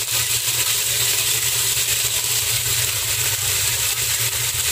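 Chicken wings sizzling steadily in hot cooking oil in a pot, with faint crackling, over a steady low rumble.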